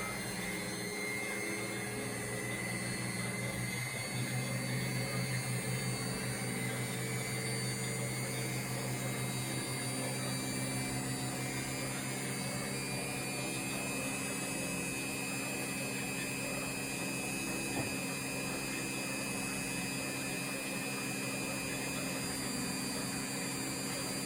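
Indesit washing machine on its spin cycle: the drum turns at speed with a steady motor hum and whir, and no knocking or bearing rumble, which the seller takes as the sign of a healthy drum bearing.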